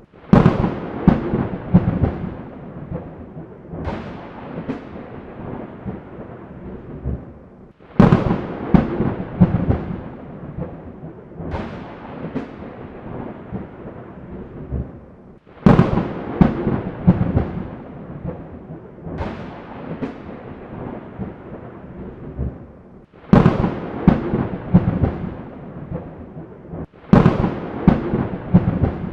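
Thunderclaps, one after another about every four seconds. Each cracks suddenly and rolls away in a low rumble.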